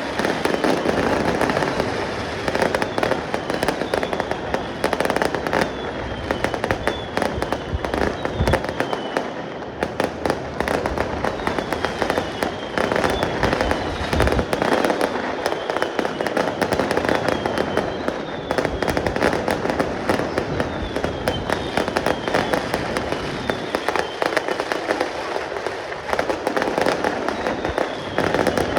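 Fireworks going off in a dense, continuous crackle of rapid pops, with short falling whistles recurring every second or two.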